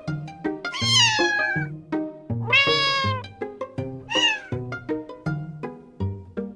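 A cat meowing three times, two long falling meows and a shorter one, over bouncy plucked background music.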